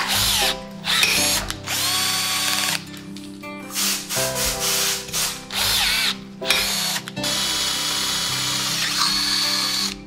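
Power drill boring holes into a trike frame tube. It runs in several short bursts, its motor whine rising as it spins up and dropping as it stops, then makes one longer run near the end. Background music plays underneath.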